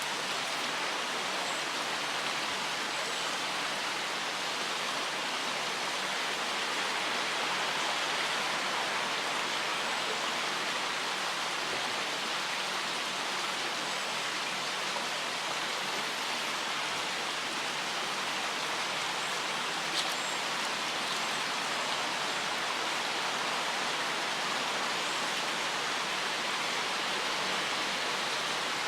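Steady rush of the River Sheaf's flowing water, a small river running over its bed close by. A single faint click comes about two-thirds of the way through.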